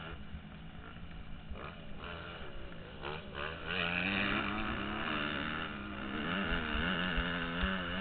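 Motocross bike engine revving up and down while being raced, louder from about halfway through, with wind rumble on the helmet microphone.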